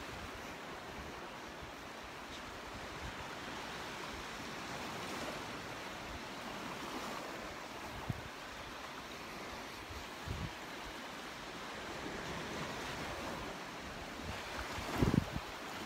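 Gulf of Mexico surf washing onto the beach in a steady, slowly swelling hiss, with a few brief gusts of wind buffeting the microphone, the strongest near the end.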